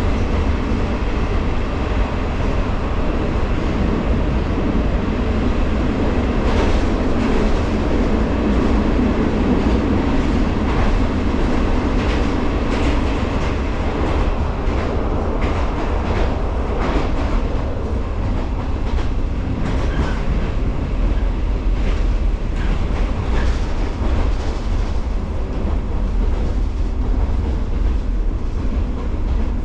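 A JR 115-series electric multiple unit running steadily, a continuous rumble of wheels and running gear. Scattered sharp clacks come through the middle stretch, as the wheels pass over rail joints.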